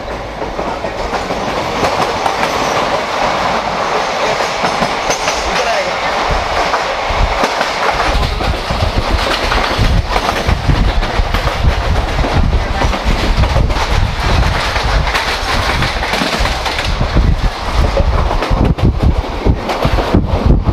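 The Deccan Queen express train running at speed, its coaches' wheels clattering over the rails, heard from an open coach window. A heavier low rumble comes in from about eight seconds in.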